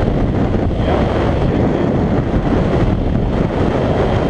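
Wind noise buffeting a GoPro's microphone while riding a motorcycle: a loud, steady rush, heaviest in the low end.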